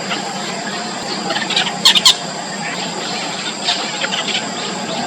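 Yellow bittern nestlings giving short, high squeaky begging calls in quick clusters, with two loud calls about two seconds in.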